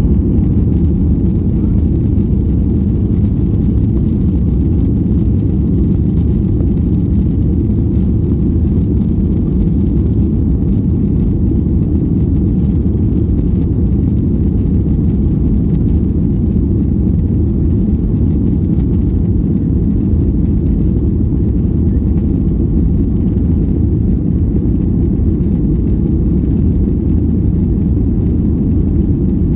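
Cabin noise of a Boeing 737-800 under way: a loud, steady, deep rumble of its CFM56 jet engines and airflow, heard from inside the passenger cabin.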